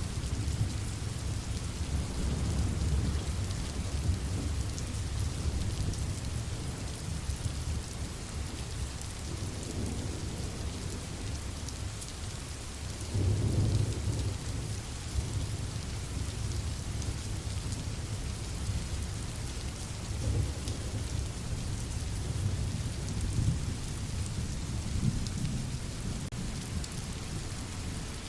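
Steady rain with low, rolling thunder underneath, swelling several times; the loudest roll comes about halfway through.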